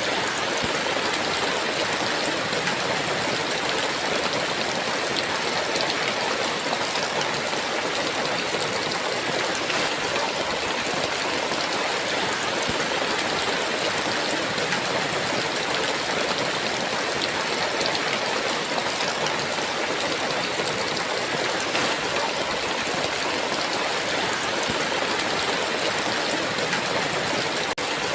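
Heavy rain pouring steadily: a dense, even hiss of downpour with no breaks.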